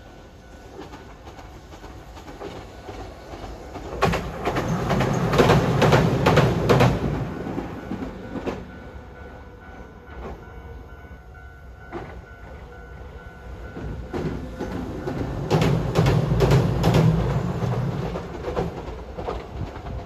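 Rail vehicles passing close by, wheels clacking in quick runs over rail joints over a low rumble. Two passes swell up and fade, one about four seconds in and another past the middle.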